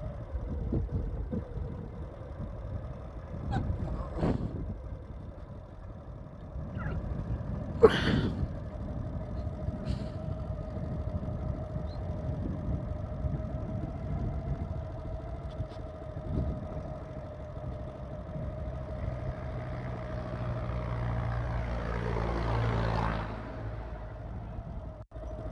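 Motorcycle engine running steadily on the move, over low wind and road rumble, with a sharp knock about eight seconds in and a shift in the engine sound near the end.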